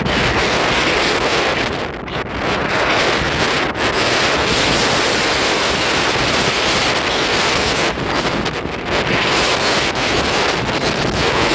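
Strong wind blowing across the microphone as a loud, steady rush, easing briefly a few times.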